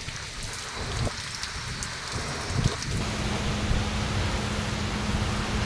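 Heavy rain pouring down in a steady hiss, with a brief thump about two and a half seconds in. About three seconds in, a steady low hum of vehicles driving through the downpour on a wet road joins the rain.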